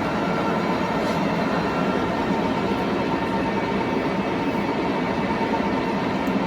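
Large 75-inch-swing Tru-Turn engine lathe running, its motor and geared drive giving a steady, even mechanical noise with a faint steady hum.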